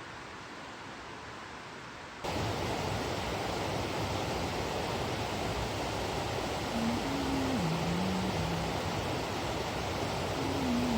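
Steady rushing of the Nantahala River's water over rocks and falls. It jumps suddenly louder about two seconds in. Faint, low held tones shift pitch step by step near the middle and again at the end.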